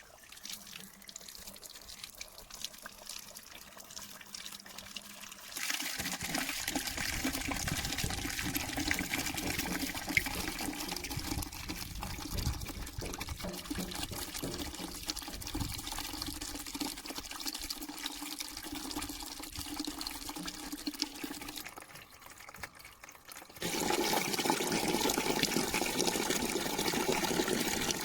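Water running, in a quieter first spell and a louder second one after a short break.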